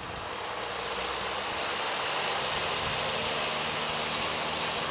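Piper Cherokee 140's four-cylinder Lycoming engine brought up to full throttle for the takeoff roll, growing louder over the first second or two and then holding a steady drone.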